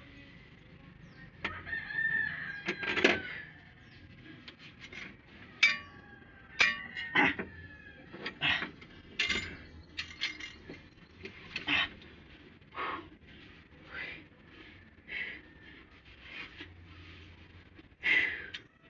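A rooster crowing once near the start, over a run of sharp, irregular knocks and clinks, some ringing briefly like metal.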